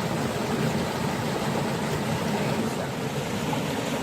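River water rushing and splashing steadily, a constant noise that is heaviest in the low range; the river is running full after a lot of rain.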